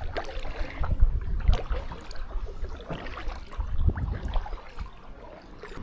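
Kayak paddle strokes dipping and splashing in the water, with gusts of wind buffeting the microphone.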